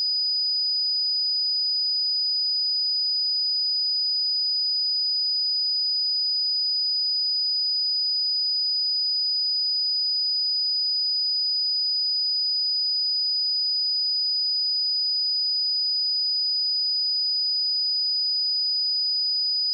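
A steady, unbroken 4965 Hz sine-wave test tone: one pure high-pitched tone held at a constant level.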